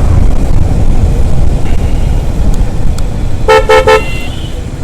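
Low rumble of a motorcycle moving through traffic, with a vehicle horn giving three quick beeps about three and a half seconds in.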